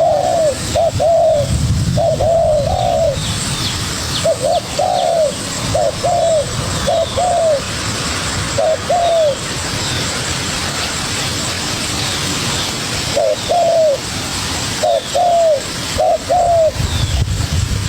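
Spotted doves cooing: short arched coo notes in quick runs of two or three, repeated, with a pause of a few seconds about halfway through. The calling is a young wild dove dueling with a decoy dove. Faint high chirps of small birds sound behind it.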